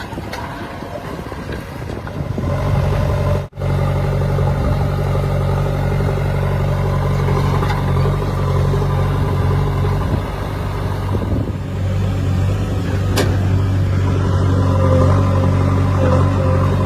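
Heavy diesel engine running steadily at a low, even pitch, the sound breaking off for an instant about three and a half seconds in, with a sharp click near the end.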